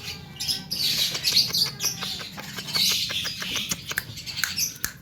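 Young Javan myna singing: scratchy, noisy song notes mixed with a quick run of clicking notes through the middle.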